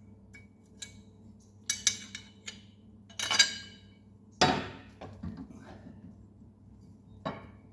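Metal clinks and clanks of a mower blade, bolt and tools being handled while a blade is refitted on a Ventrac Tough Cut deck. There are a handful of separate sharp knocks, each with a short ring, the loudest about three and a half and four and a half seconds in.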